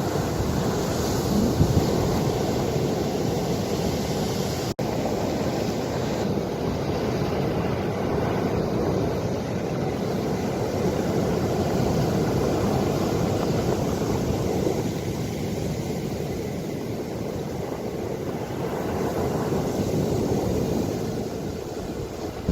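Ocean waves washing in steadily, with wind noise on the microphone. The sound drops out for an instant about five seconds in.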